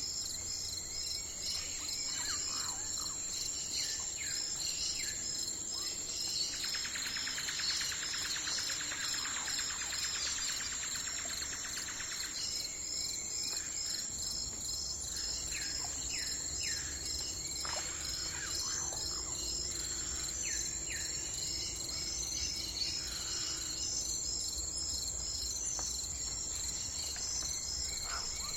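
Forest ambience: a steady chorus of crickets and other insects chirping in a fast pulsing rhythm, with scattered short bird calls. A buzzing trill comes in for about five seconds near the first third.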